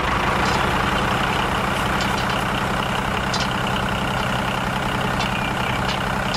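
A diesel tractor engine running steadily at an even idle-like pace, with no change in speed.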